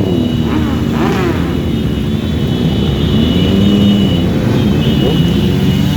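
Several motorcycle engines running together, with revs rising and falling a few times as bikes pull away and pass.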